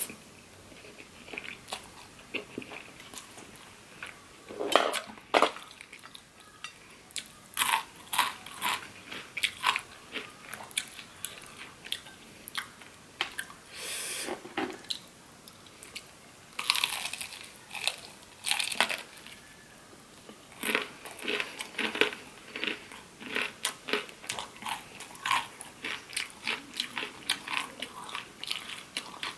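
A person chewing and eating shrimp pasta: many short, irregular mouth clicks and smacks.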